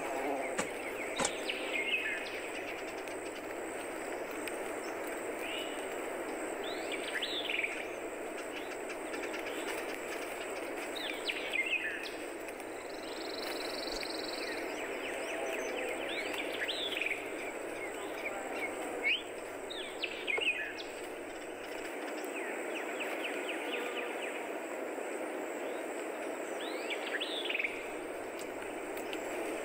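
Bird calls: short, downward-sweeping chirps a few seconds apart, over a steady background noise.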